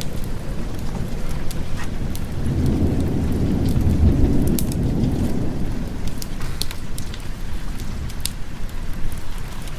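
Steady rain with a low roll of thunder that swells about two and a half seconds in and fades by about six seconds, with scattered sharp ticks over it.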